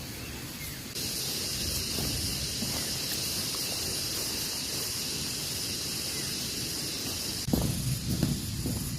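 A steady hiss that starts suddenly about a second in and cuts off suddenly near the end, followed by a few knocks and rustling.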